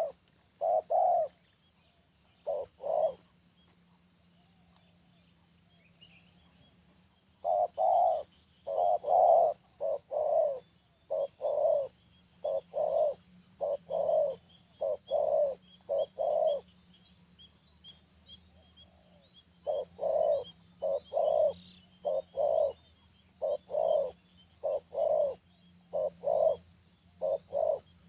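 Spotted dove cooing: deep coo notes repeated in long runs, with pauses of a few seconds between runs. Faint chirps of small birds and a thin steady high hiss sit behind it.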